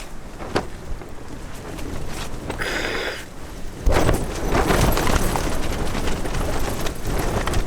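Strong mountain wind buffeting a backpacking tent, the fabric snapping and flapping, with a heavy gust hitting about four seconds in and rumbling on. A few sharp cracks of the fabric and a brief rustle come before the gust.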